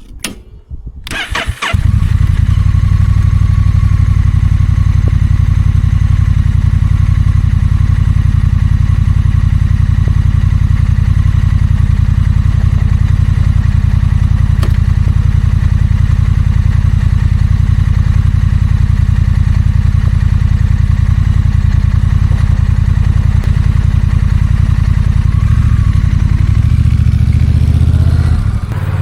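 Honda Rebel 1100's 1,084 cc parallel-twin engine is started: brief cranking, then it catches about two seconds in. It then idles steadily, and its note changes shortly before the end.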